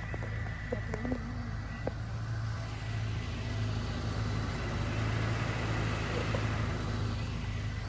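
Steady low hum of a running motor vehicle, with a few faint clicks about a second in.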